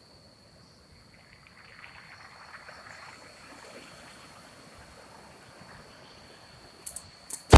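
Faint steady background hiss with a few small clicks near the end, the last one a sharp, loud click.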